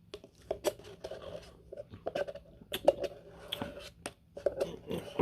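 Close-up eating sounds from a Dairy Queen Smarties Blizzard: wet mouth smacks and chewing, broken by many short, sharp clicks.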